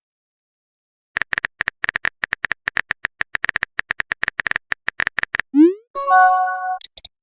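Phone-keyboard typing clicks in a rapid run for about four seconds. Then a quick rising whoosh, like a message being sent, and a short multi-tone chime, like a message notification.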